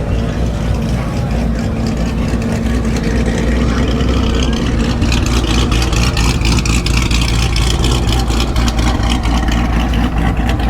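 A vehicle engine running steadily, turning rougher with a rapid crackling rattle about halfway in.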